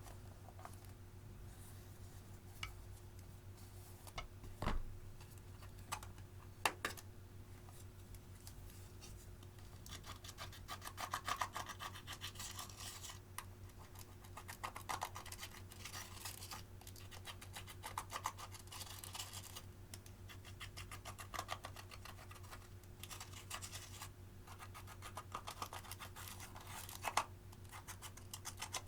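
Clear slime being worked by hand with crushed eyeshadow mixed in. A few separate clicks come first, then from about ten seconds in there are repeated bursts of crackly, sticky clicking as the slime is squished and stretched.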